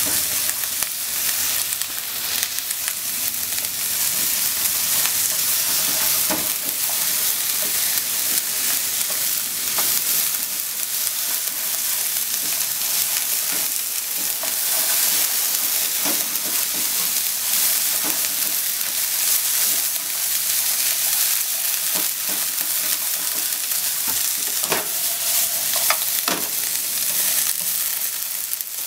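Sliced onions sizzling in a nonstick frying pan, a steady hiss while they are stirred with wooden chopsticks, with a few light taps of the chopsticks against the pan.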